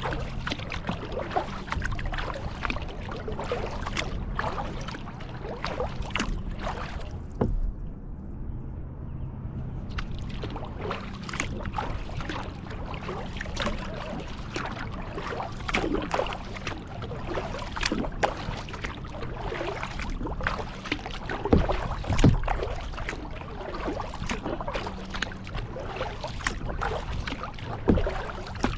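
Kayak being paddled: a string of paddle strokes splashing and water sloshing against the hull, with a few louder knocks and splashes. The sound goes briefly muffled about a third of the way in.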